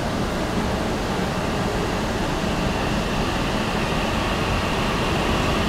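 E6 series shinkansen pulling slowly out along a platform: a steady rushing hum that swells slightly toward the end, with a faint high steady tone coming in about halfway.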